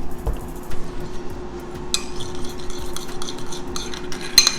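A spoon scraping and clinking against a small bowl while honey is mixed into hoisin sauce, with sharper clinks about two seconds in and near the end.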